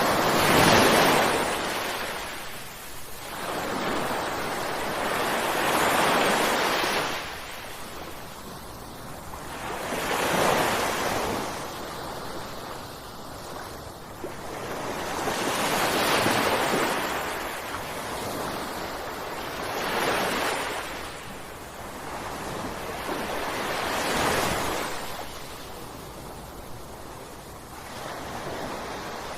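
Ocean waves breaking on a shore, each wash swelling and falling away, about one every four to five seconds.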